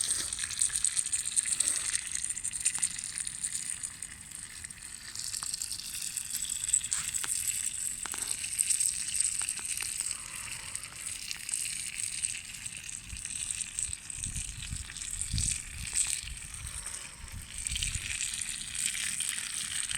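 Food sizzling in a pan over a campfire: a steady hiss with small scattered crackles and pops.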